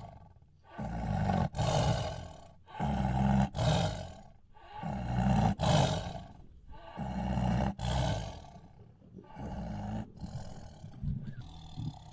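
Honey badger sound effect: a string of about six rough growling calls, each lasting about a second and a half with short gaps between them, growing weaker near the end.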